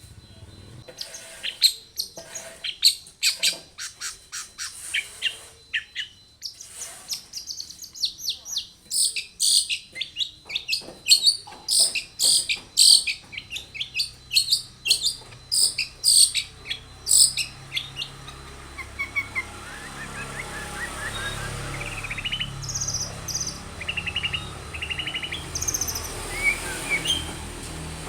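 Long-tailed shrike singing: rapid runs of sharp, high chirps, dense and loud for the first two-thirds. After that come quieter, shorter trills over a rising hiss.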